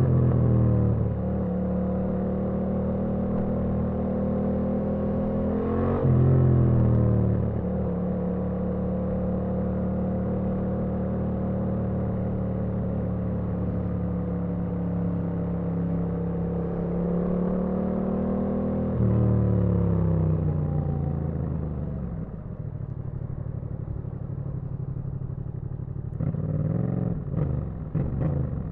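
Yamaha MT-07's parallel-twin engine under way: its pitch falls at the start, holds steady, rises and drops back about six seconds in, holds steady again, then climbs and falls away to a low idle around twenty seconds in. A few short throttle blips come near the end.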